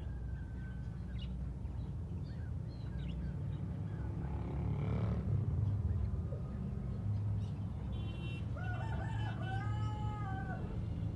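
A rooster crowing once near the end, a broken start then one long arching call, among scattered short chirps of small caged birds, over a steady low hum.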